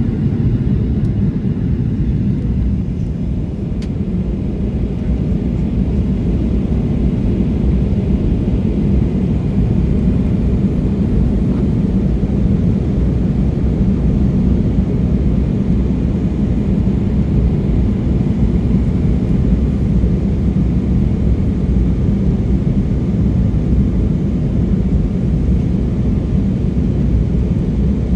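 Steady low rumble of cabin noise inside an Embraer E175 regional jet in flight: the drone of its turbofan engines and the rush of air past the fuselage, unchanging throughout.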